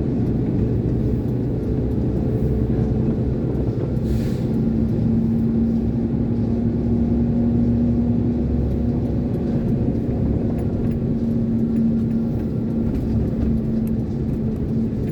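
32-ton Iveco concrete mixer lorry's diesel engine running as the lorry drives along, a steady low drone with an even rumble underneath.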